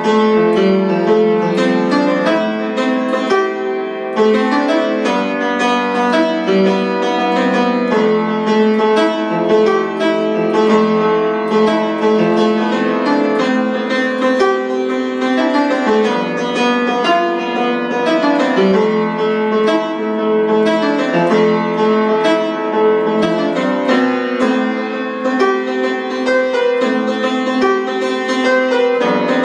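Solo piano improvisation: a steady stream of quick notes in the middle and upper range, with little bass.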